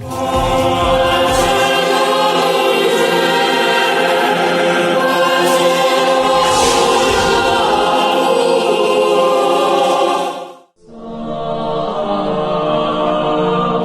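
Choir singing in sustained chords. It breaks off briefly a few seconds before the end, and a new sustained passage begins.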